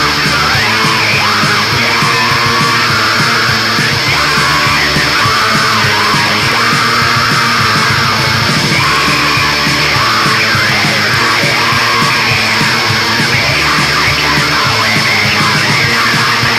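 Heavy metal song: distorted electric guitars and bass playing loud and steady, with harsh yelled vocals over them.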